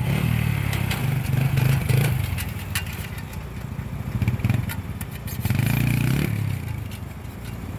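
Four-wheeler (ATV) engine revving hard in two bursts, dropping back between them, with some clattering over it.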